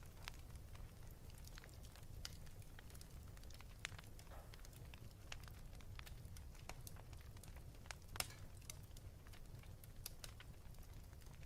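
Wood fire in a fireplace crackling faintly, with scattered sharp pops over a low steady rumble; the loudest pop comes about eight seconds in.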